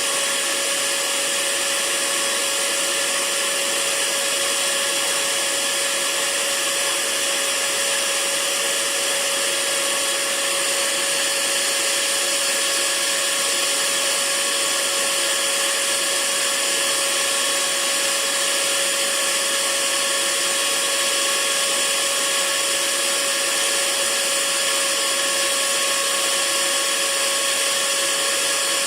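Electric hair dryer running steadily, a constant whooshing hiss of the fan and air with a steady motor whine.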